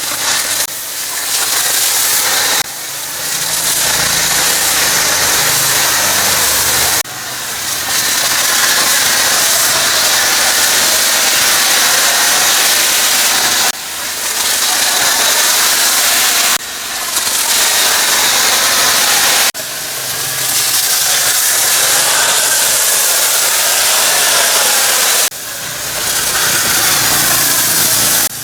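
Pressure washer spraying water: a steady hiss over the low hum of its motor, breaking off abruptly and resuming about six times.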